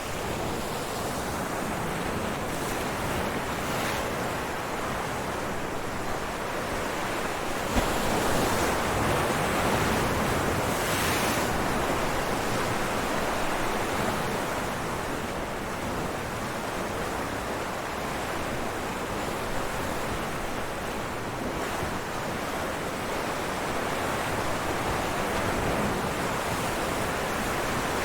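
Ocean waves breaking on rocks, a continuous rushing wash that swells as a larger wave breaks about a third of the way in, then eases back.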